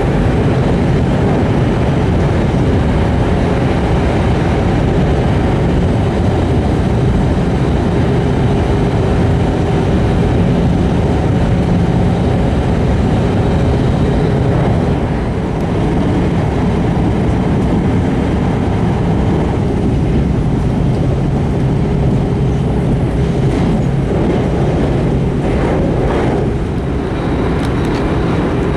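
Steady running noise of an E5 series Shinkansen heard inside its passenger cabin: an even rumble and rush from the wheels, track and air at speed.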